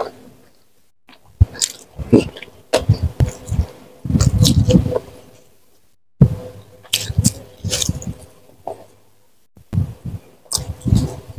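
A person chewing food with mouth close to the microphone: irregular wet smacks and crisp clicks of chewing, in clusters with a couple of short pauses.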